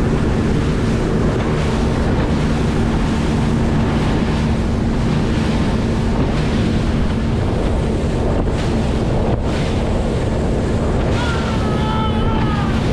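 Wind buffeting the microphone over water noise and a steady low motor hum from a boat. Near the end comes a short wavering high call.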